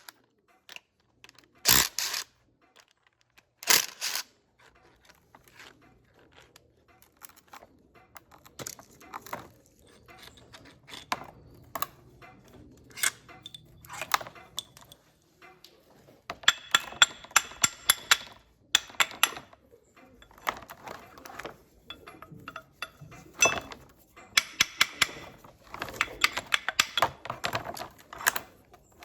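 Metal tools and parts clinking, tapping and knocking on a workbench, with two sharp knocks in the first few seconds and later runs of rapid clicking, such as during hand work on a tractor hydraulic pump.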